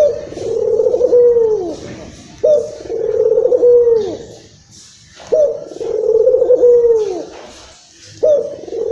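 Local puter (Barbary dove) cooing excitedly, four calls about three seconds apart. Each call is a short sharp note leading into a long rolling coo that falls away at the end.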